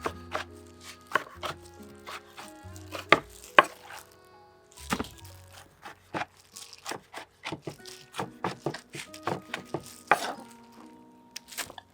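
Knife chopping on a cutting board: a run of sharp, irregular strokes with a short pause partway through, over background music.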